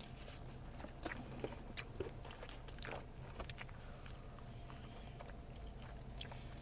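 Close-up chewing and biting of food, with scattered small crunches and clicks, over a steady low hum.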